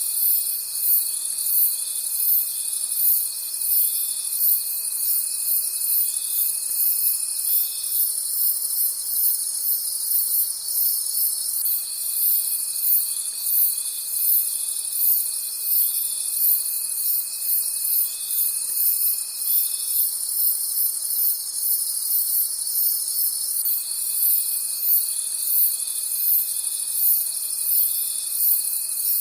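A night chorus of crickets chirping: a dense, high-pitched, rapidly pulsing trill. Beneath it a steadier, lower trill drops out twice and comes back each time.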